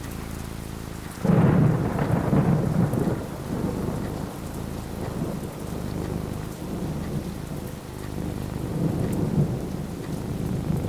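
Steady rain falling, with a sudden thunderclap about a second in that rumbles on for a couple of seconds, then the thunder swells again near the end.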